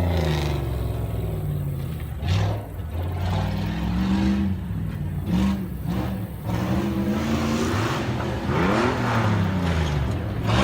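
Jeep Grand Cherokee engine revving up and down again and again under load in low-range four-wheel drive, with a few sharp knocks in the first half.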